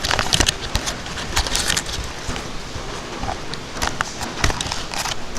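Typhoon rain drumming on a bicycle's roof canopy: many irregular sharp drop hits over a steady rush of wind and rain.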